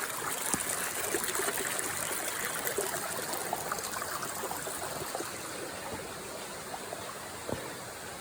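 Shallow stream running and trickling over rocks: a steady rush of water, with a few light knocks scattered through it, easing a little toward the end.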